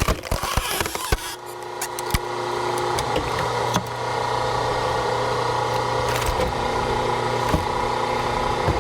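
An engine running steadily at one speed. A few sharp knocks and cracks, like wood being struck or split, come in the first second or so.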